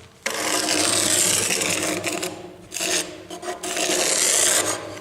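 Scraping, rasping rub of a marker being drawn along the formwork boards to mark the slab boundary on the floor, in two long strokes of about two seconds each.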